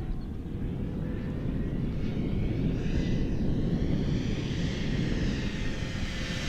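Electric brushless motor and propeller of a 1.5 m E-flite Air Tractor radio-controlled plane in flight, with a whine that swells around the middle, over wind noise on the microphone.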